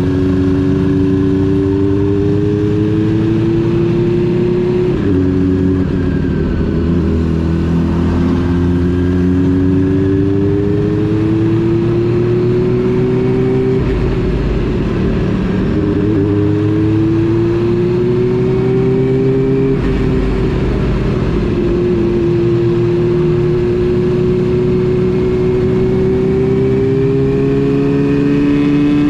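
Honda CB400 Super Four Revo's inline-four engine running under way, its pitch climbing as the bike accelerates and dropping back sharply at each gear change, three times.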